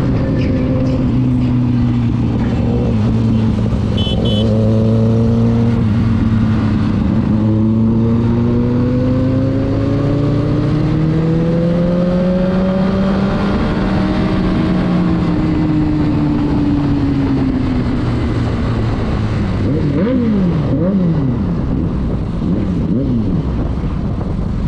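Motorcycle engine heard while riding, with wind rush: the engine pitch climbs slowly as the bike speeds up, holds, then falls away. Near the end the throttle is blipped several times in quick succession, the revs jumping up and dropping back about once a second.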